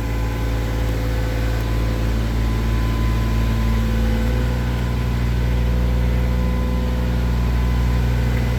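Heavy truck diesel engine idling steadily, its low hum growing a little louder and deeper about four seconds in.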